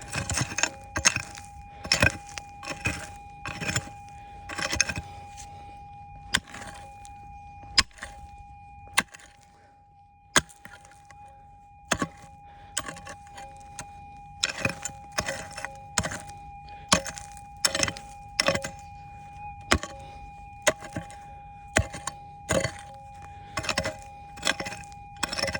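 Pick striking and scraping into rocky schist ground, stones clinking and clattering, about one or two blows a second with a short pause midway. Under it runs the steady tone of the metal detector.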